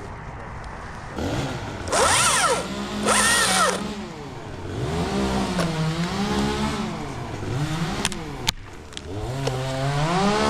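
Chainsaw's two-stroke engine revved repeatedly, the pitch swinging up and down, with two loud full-throttle bursts about two and three seconds in.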